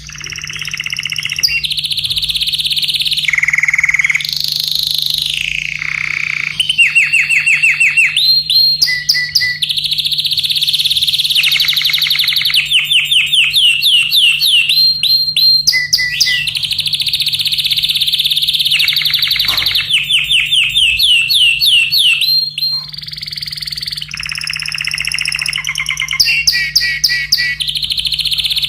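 Domestic canary singing a long, loud song of fast trills and rolls: runs of rapid repeated notes, sliding whistles and held notes, changing phrase every second or two.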